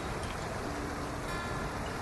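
Waterfall: falling water as a steady, even rush, with a few held acoustic guitar notes from background music over it.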